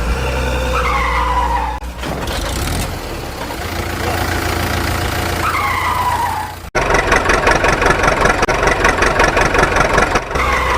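Cartoon vehicle sound effects: a low engine hum with a falling whistle-like glide heard three times. About two-thirds of the way in, a louder, rapidly pulsing sound starts suddenly.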